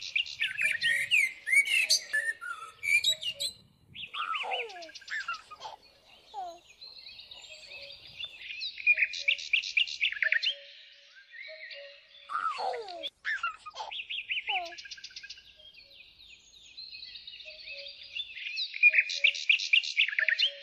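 Birdsong: birds chirping and trilling in bursts, with quick repeated notes and a few falling whistles between short pauses.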